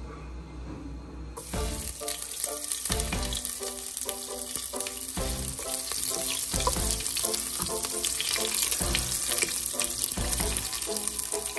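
Ginger pieces sizzling in hot oil in a pot; the sizzle starts suddenly about a second and a half in.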